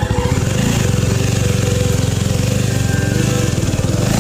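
Single-cylinder motorcycle engine running at low revs under load on a rough off-road climb, its separate firing pulses clearly heard as an even beat.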